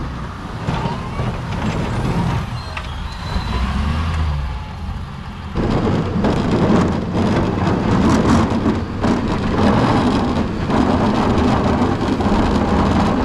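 Plow truck running with a rushing, rumbling noise that gets suddenly louder about five and a half seconds in.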